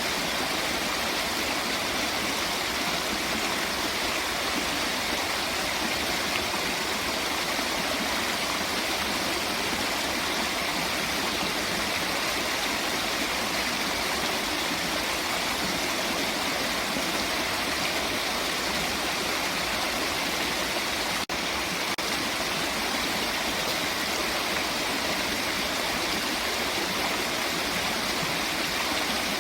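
Running water of a waterfall, a steady, even rush with no change, broken only by a momentary drop-out about two-thirds of the way through.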